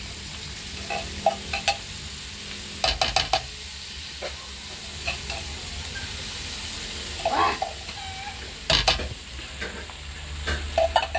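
Corned beef with onions and garlic sizzling in a wok while a spoon stirs it, scraping and knocking against the pan now and then; the loudest knocks come about three seconds in and near nine seconds.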